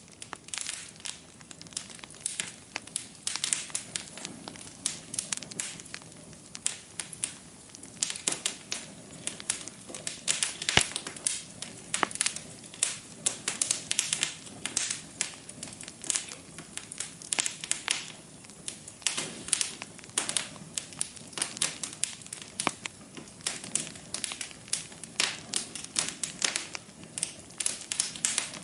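Wood fire burning in a fireplace: dense, irregular crackles and pops over a low steady hiss.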